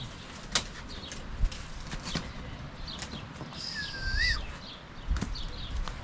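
Small birds chirping in short, scattered high notes, with a few sharp clicks and a brief whistled note that dips and rises about four seconds in.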